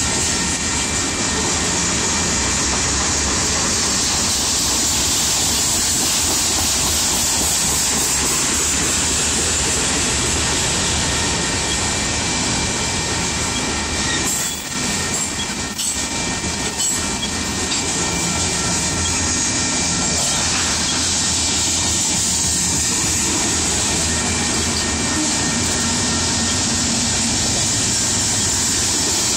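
Freight train of covered hopper cars rolling past close by: a steady loud rumble and rattle of steel wheels on rail, with a faint steady squeal from the wheels. The noise dips briefly about halfway through.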